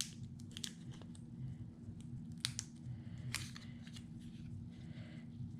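Scattered small clicks and light paper handling as adhesive dots are pressed onto a scrapbook embellishment, over a steady low hum.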